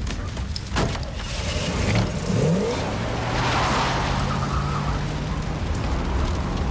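A car engine revving up and pulling away hard, with a rising pitch about two seconds in that settles into a steady drone, while tyres spin on dirt. A sharp bang comes about a second in.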